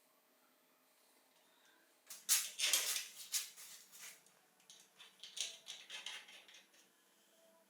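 Small metal parts clinking and scraping as they are handled, in two busy runs of about two seconds each, with a quiet start.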